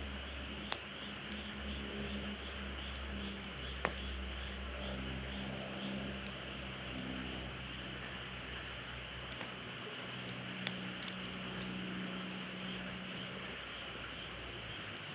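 Wood fire burning in a campfire stand: a steady hiss with scattered crackles and a few sharp pops.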